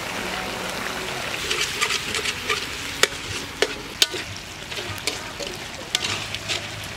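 Eel pieces sizzling and frying in a hot wok as they are stir-fried with a spatula. From about three seconds in there are a few sharp knocks and scrapes of the spatula against the wok.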